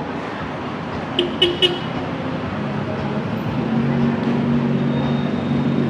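Street traffic noise with a vehicle horn giving three quick toots about a second in. A few seconds later a steady engine hum comes up and grows a little louder as a vehicle passes.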